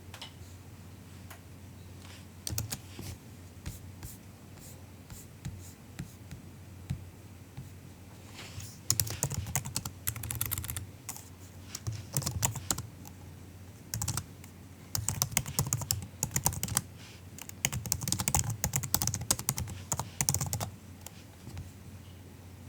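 Soft typing on a MacBook keyboard: a few scattered keystrokes at first, then fast runs of typing in bursts with short pauses, which die away near the end.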